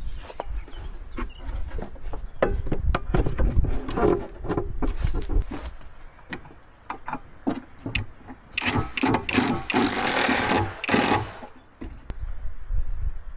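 Hand-tool work: irregular knocks and clatters, with a louder stretch of scraping about nine to eleven seconds in.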